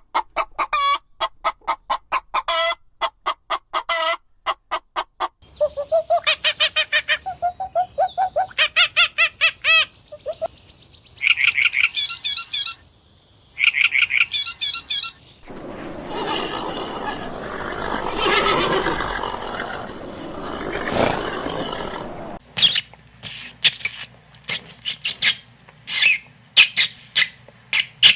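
Birds chirping and trilling in a run of separate calls: quick repeated chirps, then a fast ringing trill, then a harsher, noisier stretch of calling. Near the end come sharp, loud chirps.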